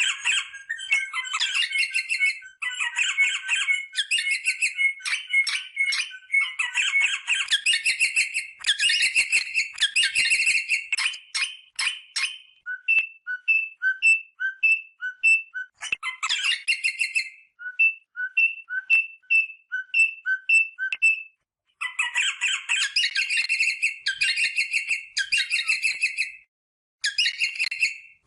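Rosella parrot calling: bursts of rapid, high chattering whistles, then a run of short clear whistles, each a higher note followed by a lower one, repeated about twice a second, before the chattering returns.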